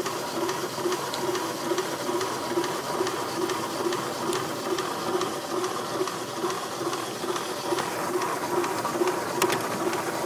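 Rovinka 1.25 L tabletop electric stone wet grinder running, grinding soaked lentils into batter: a steady churning with a low pulse about two to three times a second, and a sharp click near the end.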